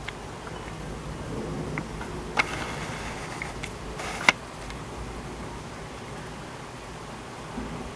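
Steady hiss of heavy rain falling during a thunderstorm, with two sharp clicks about two and a half and four seconds in, the second the louder.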